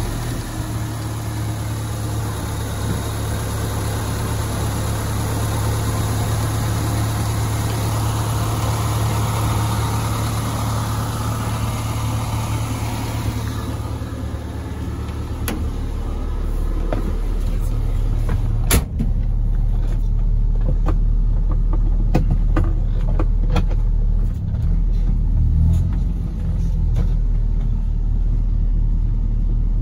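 Zastava 750's small rear-mounted, water-cooled inline-four engine idling steadily just after starting. It is heard first at the open engine compartment, then turns duller and more rumbly at about a third of the way through as it is heard from inside the car, with one sharp knock at about 19 s in.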